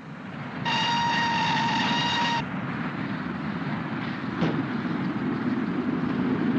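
Steam locomotive whistle sounding one steady blast of a little under two seconds over the rumble of the mail train running at speed, with a single sharp knock about four and a half seconds in.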